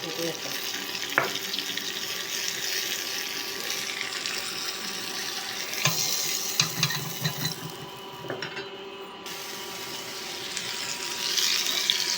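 Curry leaves frying in melted butter in a small pan for a tempering: a steady sizzle with a few light clicks.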